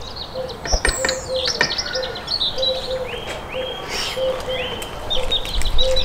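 Small birds chirping in a quick run of short repeated notes, some higher ones falling in pitch. A few sharp clicks fall in the first two seconds.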